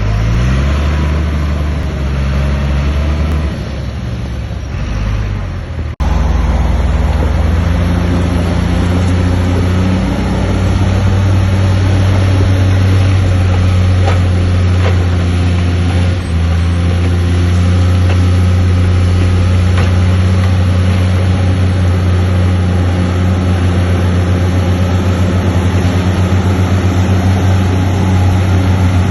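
Heavy diesel engine of earthmoving machinery running steadily under load, a deep continuous drone. The sound changes abruptly about six seconds in, then carries on steady.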